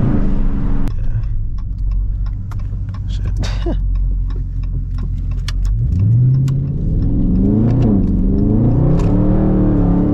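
Straight-piped Dodge Scat Pack 6.4-litre HEMI V8 exhaust, loud. It falls to a low rumble off the throttle with scattered sharp clicks, then about six seconds in revs up hard, the pitch rising and falling as it accelerates through the gears.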